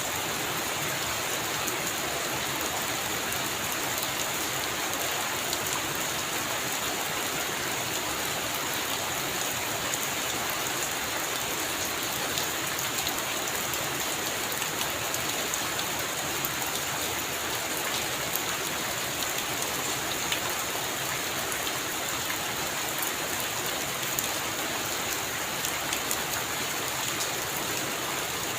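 Steady heavy rain falling on a roof, with scattered sharper drop ticks.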